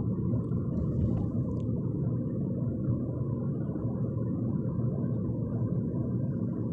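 Steady low rumble inside a moving car's cabin: road and engine noise while driving.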